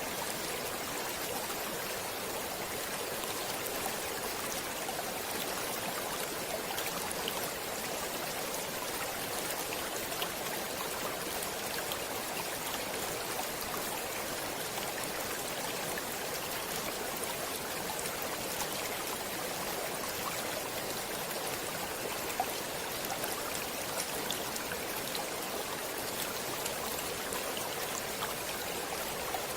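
A stream of water flowing steadily, an even rushing with faint small splashes ticking through it now and then.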